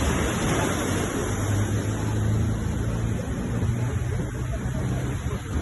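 Sea waves washing steadily, with a low steady hum that comes in about a second and a half in and fades near the end.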